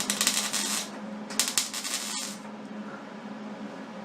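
Welding arc crackling in two short bursts of about a second each, stitch welds being laid on a steel water heater tank, over a steady low hum.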